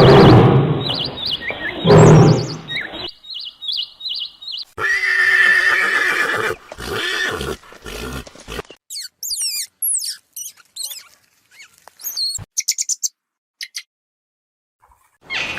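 A horse neighing and whinnying in a few loud calls, followed about halfway through by a bird's quick high chirps and whistles.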